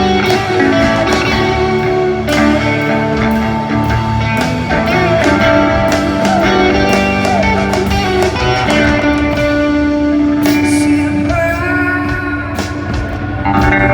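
Live band playing a slow song amplified through a venue PA, guitar to the fore over sustained low notes.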